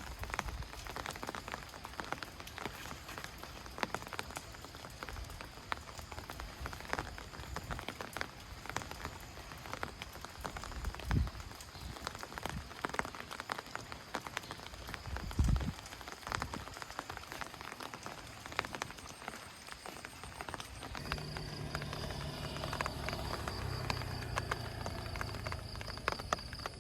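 Steady rain falling, with many separate drops hitting nearby surfaces. Two dull low thumps come about 11 and 15 seconds in, and a faint steady hum with a thin high whine joins the rain about 21 seconds in.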